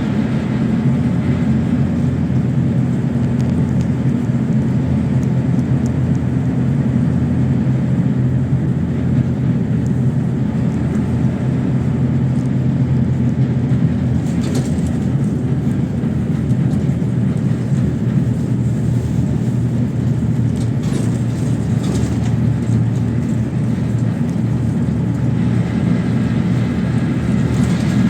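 PAZ-32054 bus under way, its engine running at a steady pitch with road noise and a few brief rattles about halfway through.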